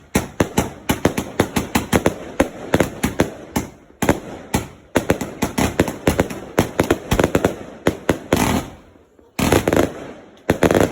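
Fireworks going off in a rapid volley of sharp bangs, several a second, with brief lulls about four and nine seconds in.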